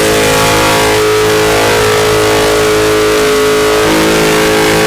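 Dodge car's engine held at high revs at a steady pitch during a burnout.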